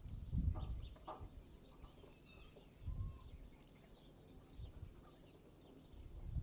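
Several birds chirping and calling, broken by short low rumbles: the loudest about half a second in, smaller ones near three and near five seconds.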